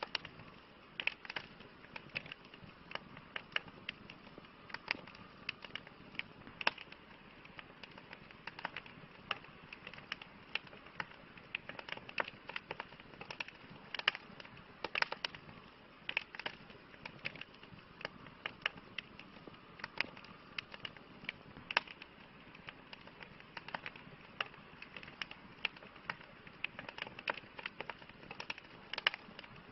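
Wood fire burning in a fireplace, crackling: irregular sharp pops and snaps, several a second, over a soft hiss.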